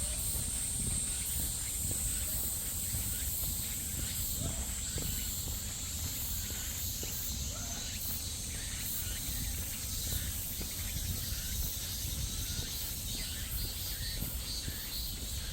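Insects droning in a steady high-pitched hiss that grows fainter about halfway through, over the walker's footsteps and a low rumble of movement on the microphone.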